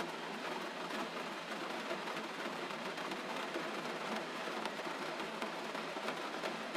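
Steady gentle rain: an even hiss with scattered sharp drop ticks.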